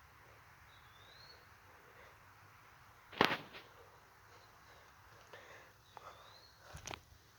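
Two sharp knocks, about three seconds in and again near the end, with a few fainter clicks between, over a quiet outdoor background. A short rising bird chirp sounds twice, near the start and just before the second knock.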